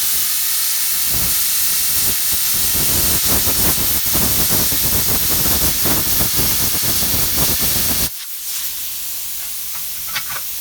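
Plasma cutter cutting the thick steel of a wood chunker's cutter head: a loud hiss of air with crackling from the arc. The arc stops suddenly near the end, and a fainter steady hiss carries on.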